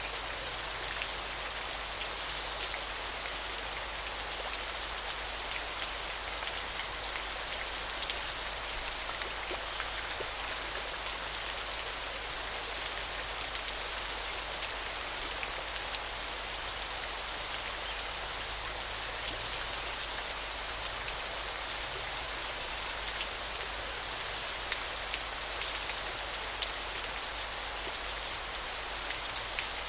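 Steady hiss of water with a fine patter of drops. From about ten seconds in, a thin high-pitched trill comes and goes in pulses roughly every two seconds.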